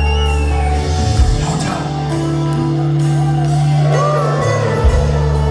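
A live rock band plays an instrumental intro: sustained bass and keyboard chords that change twice, over a regular cymbal beat. Audience members whoop and shout over it.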